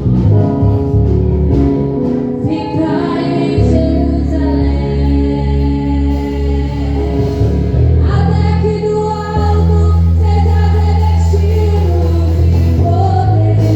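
Live Christian praise music: voices singing a worship song over instrumental accompaniment with steady, heavy bass notes.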